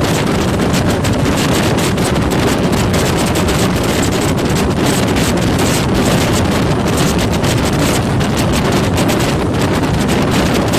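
Wind buffeting the microphone in strong, constant gusts over the low rumble of a moving vehicle.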